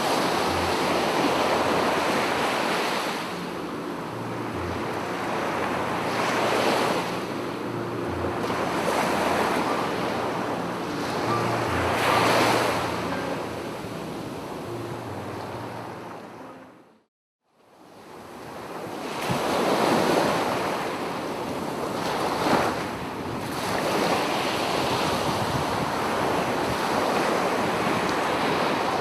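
Sea waves washing onto a beach in surges every few seconds, with wind on the microphone. Just past halfway the sound fades out to silence, then the waves fade back in.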